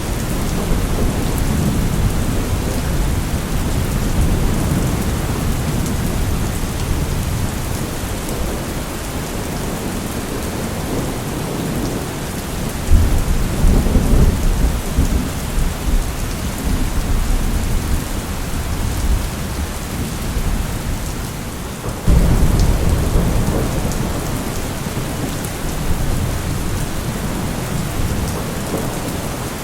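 Steady heavy rain with rolling thunder: two low thunder rumbles break in suddenly, about 13 seconds in and about 22 seconds in, each rolling on for several seconds over the rain.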